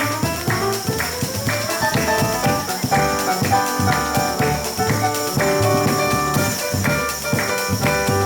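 Live jazz trio of piano, double bass and drum kit playing an instrumental passage, the piano in a run of quick notes over bass and drums.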